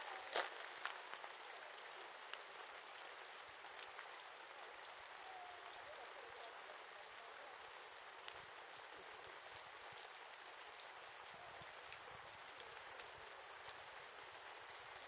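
Wood fire crackling: a steady hiss dotted with many small pops and snaps, with a couple of louder snaps right at the start.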